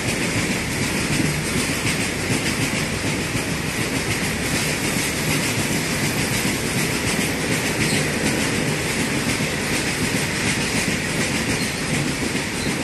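Freight train of open box wagons running through at speed close by: steady wheel clatter over the rail joints with a constant rumble and hiss.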